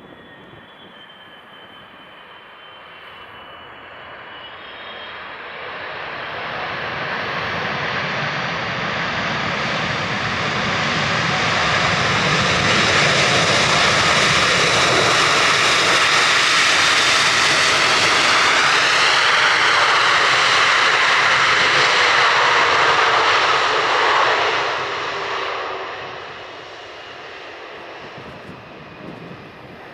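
Boeing 777's GE90 turbofan engines at takeoff power: the jet roar builds as the aircraft approaches, stays loud for about twelve seconds, then falls away quickly near the end with a downward-sliding whine as it passes.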